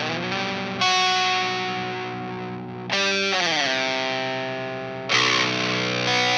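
Fender Telecaster tuned down to baritone pitch with flatwound strings, played through an Idiotbox Power Drive pedal and amp: chords struck about every two seconds and left to ring, with a slide down in pitch just after the second one.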